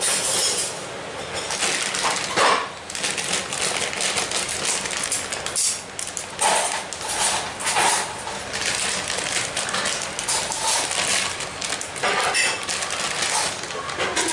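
Steady hiss of heavy rain, with pots and cutlery clattering now and then.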